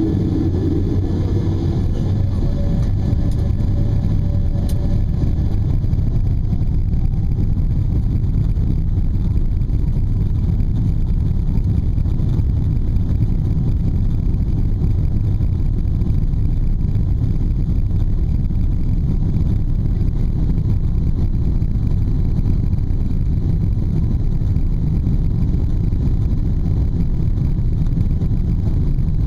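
Boeing 777-200ER jet engines at takeoff power: a faint whine rises in pitch over the first few seconds, over a loud, steady low rumble that carries on throughout.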